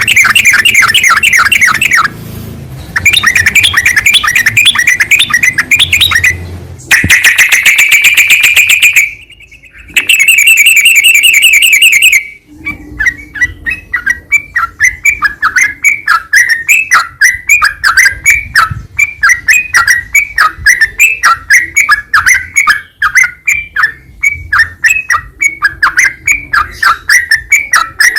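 Yellow-vented bulbul (trucukan) calling. Bursts of rapid chattering chirps, one of them a rising trill, fill the first dozen seconds; after that comes a steady run of separate chirps, about three or four a second.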